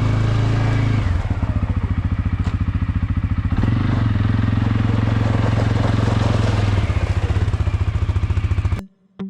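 A motor running steadily with a fast, even throbbing, which cuts off abruptly near the end.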